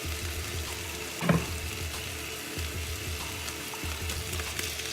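Diced chicken breast sizzling in olive oil in a frying pan, a steady hiss, with a short, louder sound just over a second in.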